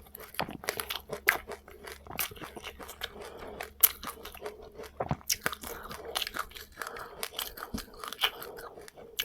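A person chewing a mouthful of seeds with passion fruit: many quick, irregular crunches and small clicks, with one sharper crack about four seconds in.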